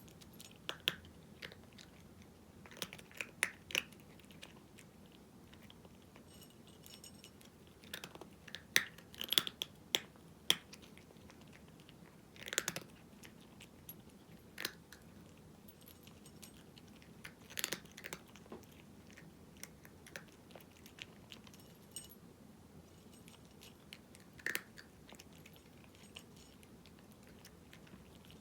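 A cat crunching dry kibble, the crunches coming in clusters with short pauses between them.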